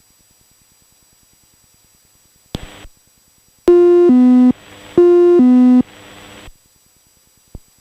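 An electronic cockpit alert chime in a light aircraft: a loud high-low two-tone sounding twice, preceded by a short crackle and followed by a click.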